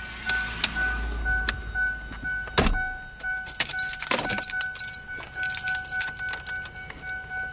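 A vehicle's electronic warning tone sounding in short beeps, then holding steady. Sharp clicks and knocks of handling around the vehicle come through it. A low hum stops at a loud click about two and a half seconds in.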